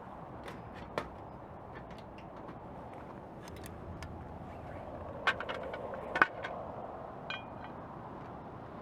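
Wood fire burning in a homemade pail-can wood stove, a steady rush with scattered crackles and pops, two sharper pops about five and six seconds in, and a brief light metallic clink near the end.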